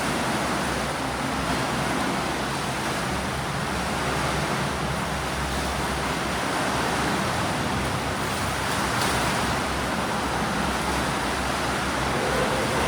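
Swimming-pool noise: a steady wash of splashing water from swimmers doing breaststroke drills.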